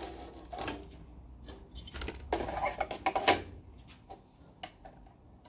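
Handling noise: scattered light knocks, clicks and rattles of small hard objects being moved about, busiest around the middle.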